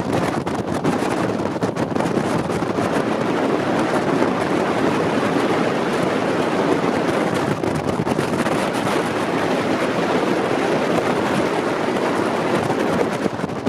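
Jet boat running at speed: a steady rush of engine and water, with wind buffeting the microphone.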